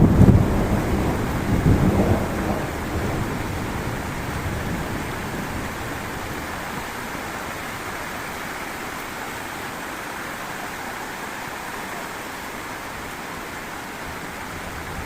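Thunder rumbling loudest at the start, with a second swell about two seconds in, then dying away over steady heavy rain.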